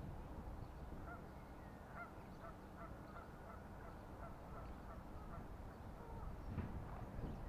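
A run of short honking bird calls, about two a second, over low wind rumble on the microphone.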